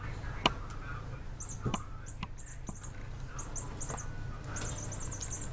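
Small bird chirping in quick runs of short, very high chirps, with a few sharp knocks or taps in between, the loudest about half a second in.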